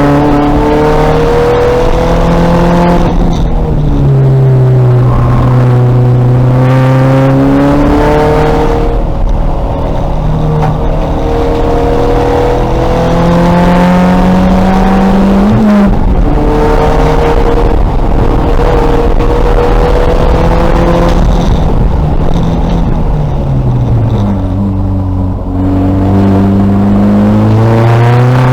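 A 2000 VW Golf race car's engine under hard driving on track, its note climbing through the gears in steps. It falls away twice when lifting and braking for corners, with one sharp knock about halfway through.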